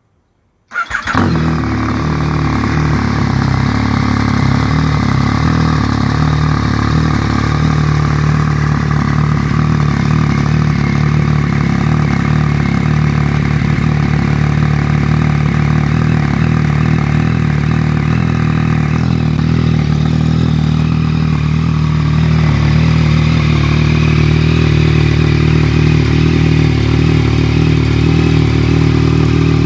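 Yamaha 847 cc inline-three motorcycle engine breathing through an aftermarket Black Widow exhaust. It starts about a second in and then idles steadily. The note changes slightly around twenty seconds in and runs a little louder after that.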